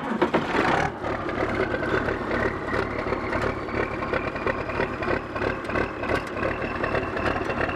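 Oliver 1855 tractor's Waukesha six-cylinder engine on a cold start, firing up within about a second and settling into a steady idle.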